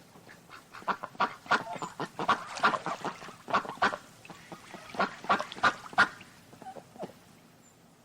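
Animal calls: runs of short, repeated calls from several animals, stopping about six seconds in, with a couple of fainter calls after.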